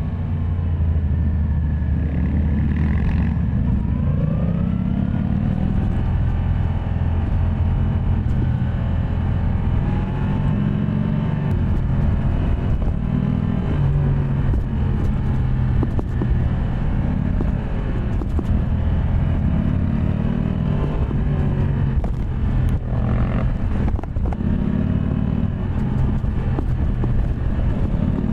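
Yamaha MT-10 SP's crossplane inline-four engine running under way, its pitch rising and falling repeatedly as the throttle opens and closes.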